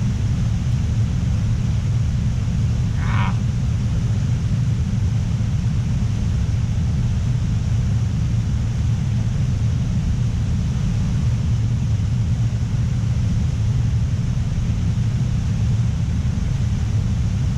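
Waterfall running nearby, a steady low rush of falling water. A brief higher-pitched sound comes about three seconds in.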